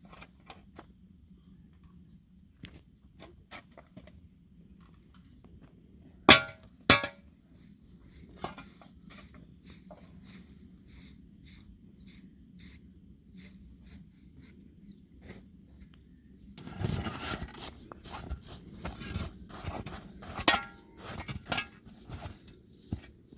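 Scattered clicks of objects being handled, with two loud metallic clanks about six and seven seconds in that ring briefly. About two-thirds through, a busier stretch of rustling, knocking and clinking begins.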